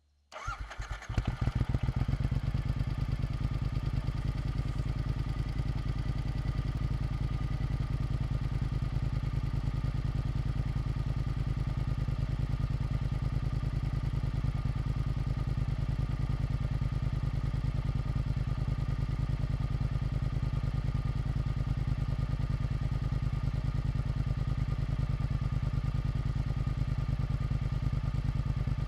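Triumph Scrambler 900's parallel-twin engine starting through an Arrow aftermarket exhaust: a brief crank that catches within about a second, then a steady idle.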